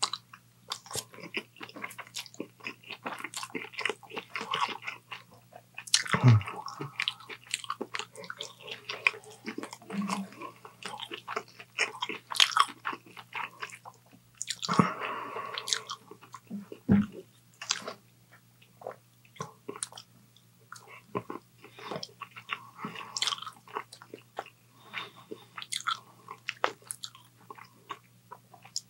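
Close-miked eating: a man chewing forkfuls of chow mein noodles and chicken, with irregular wet mouth clicks and smacks throughout and louder moments about six and fifteen seconds in.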